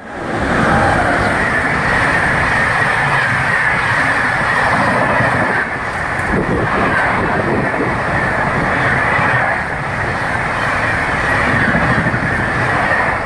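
Express train passing at high speed: a steady rush of steel wheels on rail, with a high, continuous rail hiss running through it.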